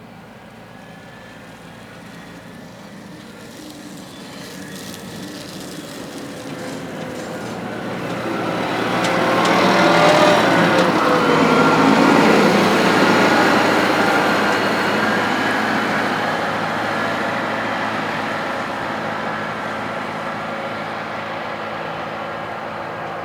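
A heavy farm vehicle's engine approaching, passing close by about ten seconds in with a slight drop in pitch, then moving away.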